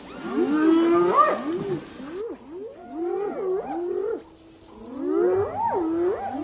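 Wild animals calling: many overlapping wailing calls that rise and fall in pitch, with a short lull near the middle.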